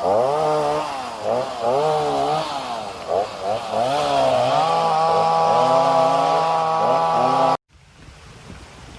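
A small engine revving up and down several times, then held at high revs, cutting off suddenly about three-quarters of the way through, after which a steady rush of wind remains.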